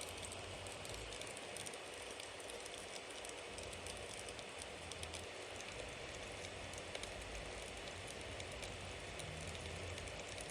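Bonfire burning steadily: a constant hiss with many small crackles and pops from the burning wood.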